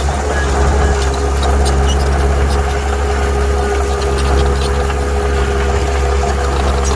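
Heavy diesel engine of a construction machine running steadily with a deep hum and a held mid-pitched tone, with many small metallic clicks and squeaks over it.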